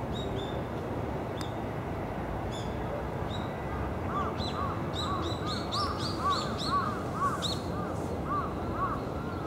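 Birds calling outdoors: many short, arched chirps repeated over and over. They grow thick and overlapping from about halfway through to near the end, over a steady background hum.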